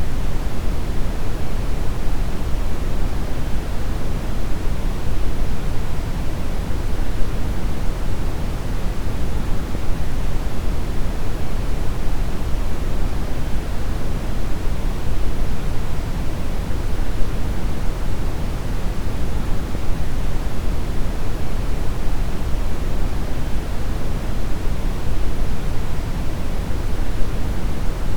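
Steady brown noise: an even, deep rushing hiss, strongest in the bass and falling away toward the treble, with no changes.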